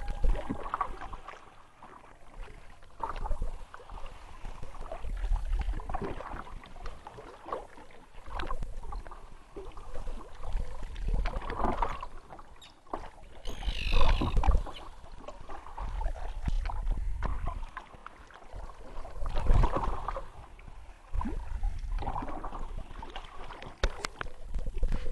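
Kayak paddle strokes in calm water: a swish and splash of the blades about every two and a half seconds, over a low rumble.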